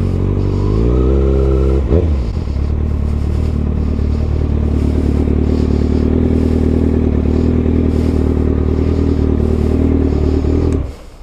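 Kawasaki ZX-6R inline-four engine rising in revs as the bike rolls up, with a brief knock about two seconds in, then idling steadily. Near the end it is switched off and the sound cuts out suddenly.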